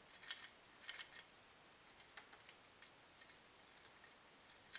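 Faint, scattered clicks of broken pieces rattling loose inside the plastic housing of a Kenmore refrigerator compressor's burnt-out overload relay as it is shaken. The loose pieces are the sign that the relay has failed.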